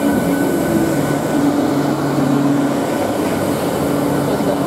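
Eastern Railway ICF-built EMU local train running slowly alongside the platform as it arrives. Its wheels and running gear make a steady, loud rumble with a faint low hum.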